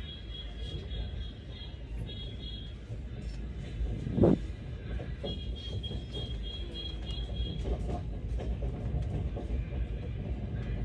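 Moving train heard from inside the coach: a steady low rumble of wheels on track, with one sharp knock about four seconds in.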